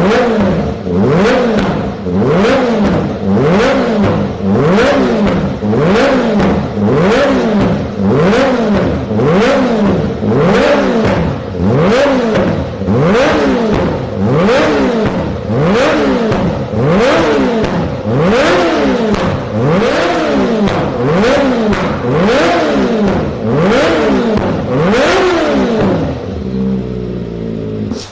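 Kawasaki ZX-25R's inline-four engine through a Yoshimura exhaust, revved in quick repeated blips about once a second, the pitch climbing sharply and dropping back each time. Near the end it falls back to idle.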